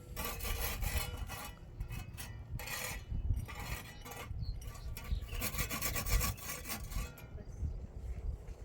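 Repeated rough scraping strokes, some short and some lasting over a second, with a low rumble underneath.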